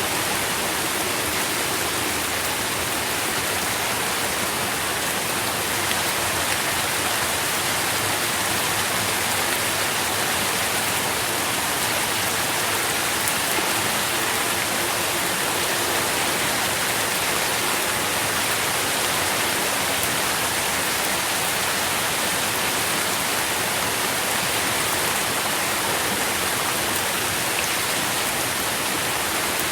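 Steady rain falling on leaves and the ground beneath a tree, a constant even hiss of drops.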